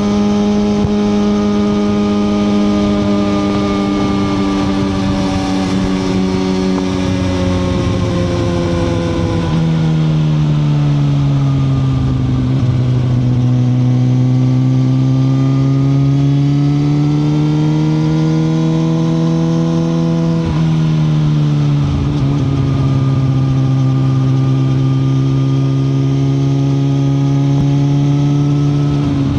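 2021 Suzuki GSX-R1000R's inline-four engine running steadily under way at a cruise. Its pitch eases down and then rises gently through the middle, drops abruptly about two-thirds of the way through, then holds steady.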